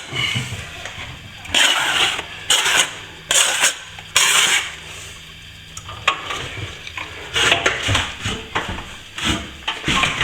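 Metal scraping tool scraping back partly set plaster on a wall, in irregular short strokes, a few close together about one and a half to four seconds in and again from about seven seconds in. The plaster is caught just before it sets, ready for another coat.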